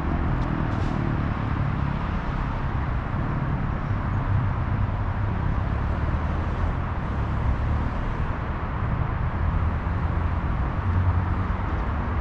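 Steady road traffic noise: a continuous low rumble of cars passing.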